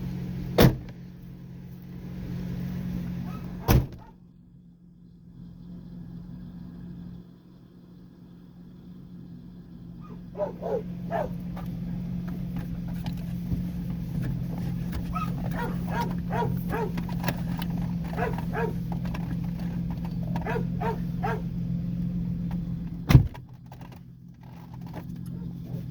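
2003 Ford Ranger's 4.0 L V6 idling through a muffler-deleted exhaust with its catalytic converters still on: a steady low drone. Three sharp thunks come near the start, about four seconds in, and near the end. Short pitched calls sound in the middle stretch.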